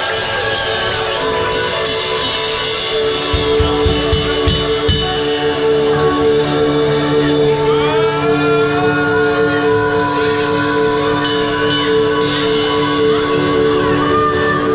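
A rock band playing live, with held chords ringing throughout and gliding higher lines. A few heavy low hits come about three to five seconds in, after which a steady low bass part joins.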